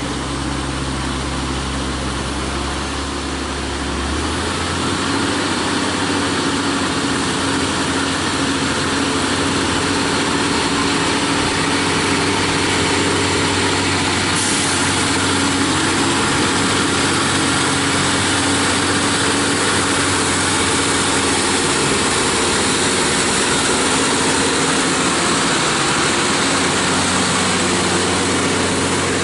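Heavy diesel truck engine running steadily. About four seconds in, its deepest rumble thins out and the overall sound grows a little louder.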